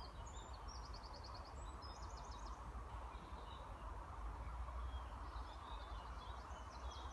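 Faint songbirds singing: short trills of rapid repeated high notes, several in a row, over a steady low rumble.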